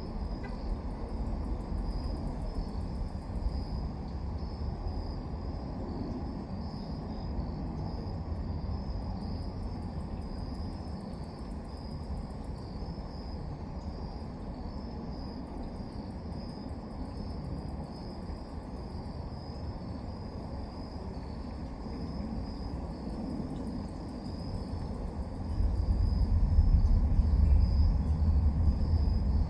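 Crickets chirping steadily outdoors at night, over a low rumble that swells and grows loud about 25 seconds in.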